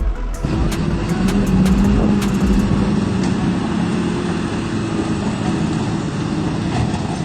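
Tractor engine running steadily and loudly with a low drone, starting about half a second in and cutting off abruptly at the end.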